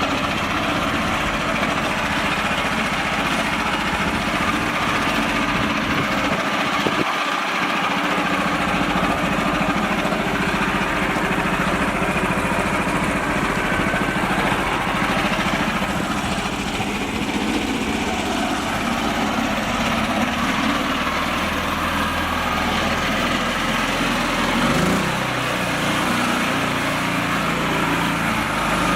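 Miniature tractor's small motor running steadily, with its pitch shifting near the end.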